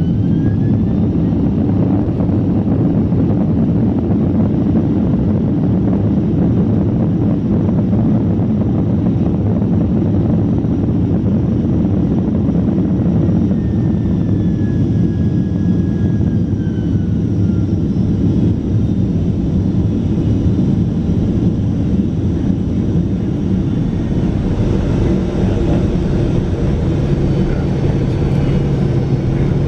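Steady low rumble of a Boeing 767-400ER's engines and airflow heard from inside the passenger cabin, with a faint whine that glides in pitch around the middle and a low hum that strengthens near the end.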